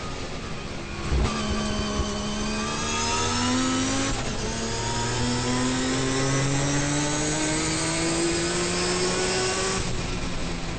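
Turbocharged 20B three-rotor rotary engine of a race-prepared Mazda RX-7, heard from inside the car, pulling hard under full throttle. A sharp thump about a second in as the pull begins; the engine note climbs, breaks briefly for an upshift about four seconds in, then climbs steadily in the next gear until it drops away near the end as the driver lifts off.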